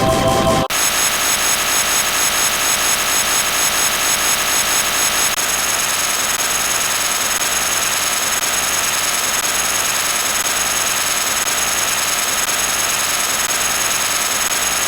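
A loud, harsh sound effect: a dense hiss with steady high whining tones, starting abruptly about a second in. It pulses about three times a second for the first few seconds, then holds steady.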